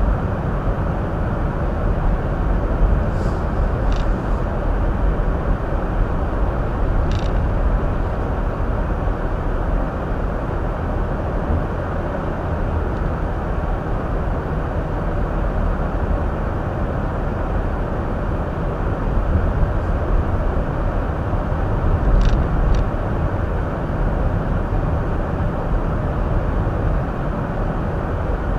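Hyundai Elantra driving, heard from inside the cabin: a steady low rumble of road and tyre noise with the engine running underneath. A few faint short clicks come through now and then.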